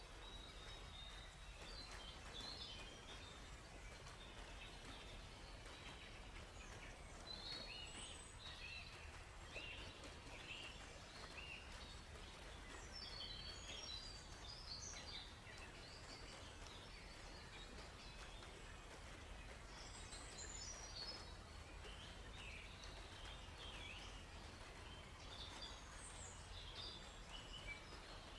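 Faint forest birdsong: several small birds chirping and twittering in short, scattered phrases, over a steady low background rush.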